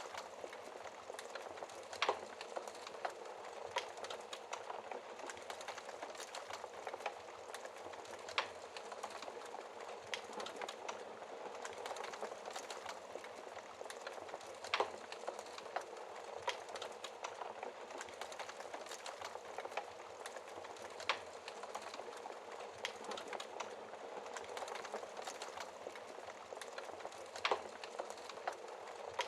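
Wood fire burning in a fireplace: a steady crackle with sharp pops every few seconds, the loudest standing out clearly above the rest.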